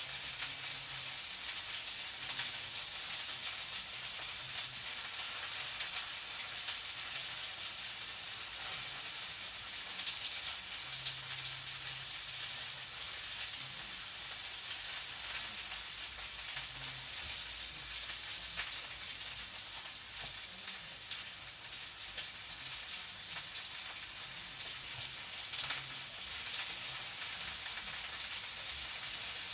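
Food frying in a pan: a steady sizzle with fine crackles.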